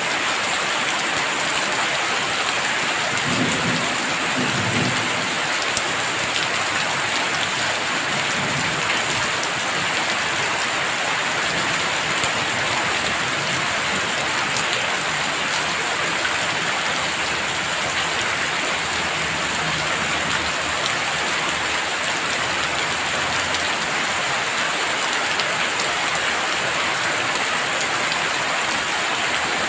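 Heavy rain falling steadily in a dense, even hiss, with a brief low rumble of distant thunder a few seconds in.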